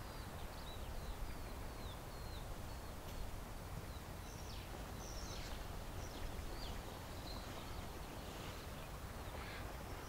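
Small birds chirping, with short, thin, high calls scattered throughout, over a steady low rumble.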